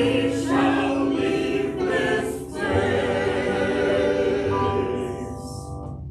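Small church choir singing the closing phrase of a worship song, ending on a held final chord that fades away near the end.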